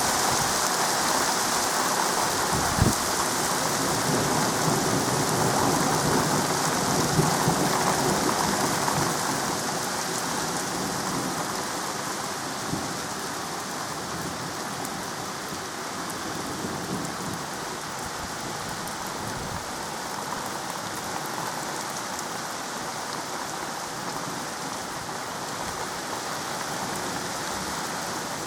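Steady rain falling, with a low rumble of thunder through the first several seconds and a sharp crack about three seconds in; the rain eases slightly from about ten seconds in.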